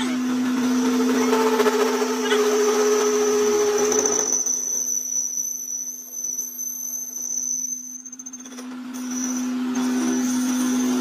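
A motor-driven workshop machine running steadily with a constant hum and a high whine. It has a rough, noisy working sound for about the first four seconds that then drops away, leaving the machine running more quietly.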